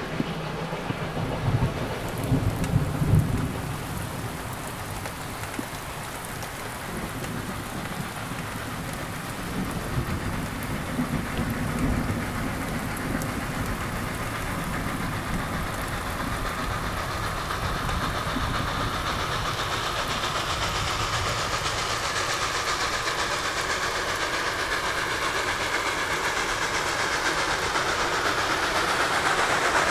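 Steady rain falling, with low rumbles in the first few seconds and again about ten seconds in. Through the second half, the rushing sound of Reading & Northern 425's steam train approaching grows steadily louder.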